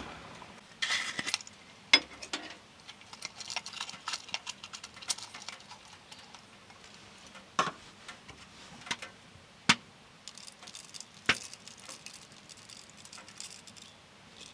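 Scattered sharp clicks and taps at irregular intervals, with a short spell of light rustling about a second in.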